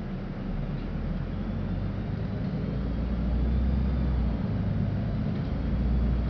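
LiAZ-5292 city bus heard from inside the cabin while driving, its low engine rumble growing louder as it speeds up.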